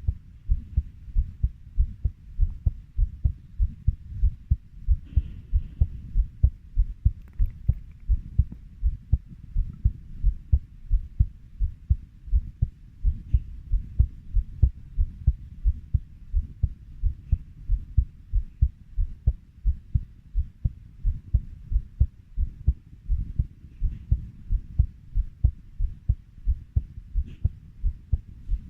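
Heartbeat: a steady rhythm of low double thumps, lub-dub, at about 90 beats a minute.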